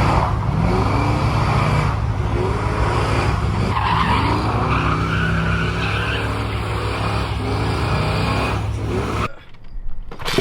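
Car engine running hard with tyres squealing and skidding, like a burnout. It cuts off suddenly near the end.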